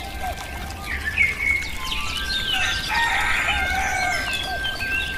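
Birds calling: a mix of short chirps and sliding whistles, busiest about halfway through, with a steady high whistle-like tone holding from about two seconds in.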